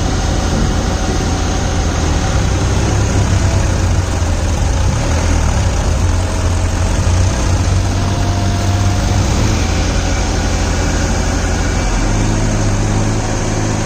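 Massey Ferguson 7250 tractor's diesel engine running steadily with a low drone, its note shifting about twelve seconds in.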